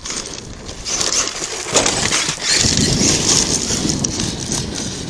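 ARRMA Kraton 8S RC truck plowing through rocks and dirt, its tyres and chassis crunching and clattering over the stones. It gets louder about a second in.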